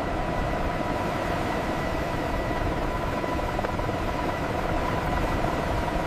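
Steady engine drone under a loud, even wash of noise, with a few faint held tones, unchanging throughout.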